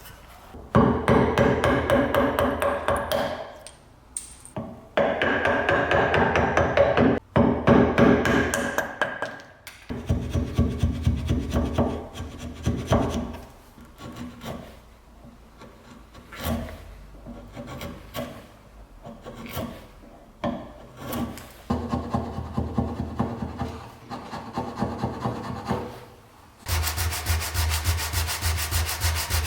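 Abrasive hand work on a hand wringer's parts: quick runs of rasping, rubbing strokes lasting a few seconds each, with short pauses between. Near the end a steady, even mechanical buzz starts and then cuts off suddenly.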